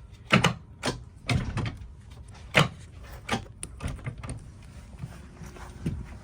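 A string of separate clunks and knocks from a boat's cockpit seat being released at a button and its backrest folded down into a sunbed.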